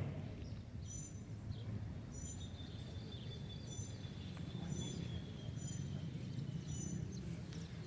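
Faint outdoor ambience: a low rumble with short high chirps repeating about once a second, and a thin faint whistle-like tone held through the middle.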